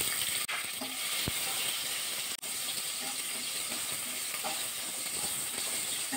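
Tomato wedges sizzling steadily in hot mustard oil in a kadai, stirred with a spatula.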